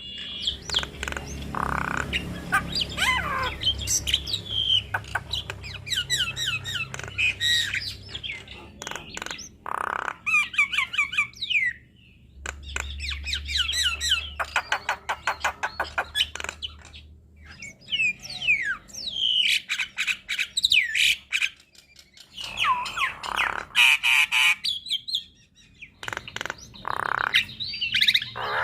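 Javan myna (jalak kebo) singing a long, varied song: whistles gliding up and down, harsh squawks and fast rattling runs of clicks, broken by a few short pauses.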